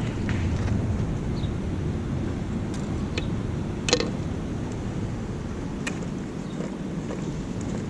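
A steady low outdoor rumble with a few sharp clicks scattered through it, the loudest about four seconds in.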